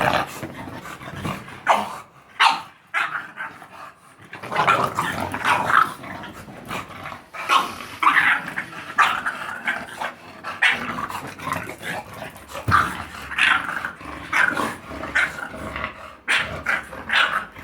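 A bulldog making short, rough sounds in irregular bursts, about one or two a second.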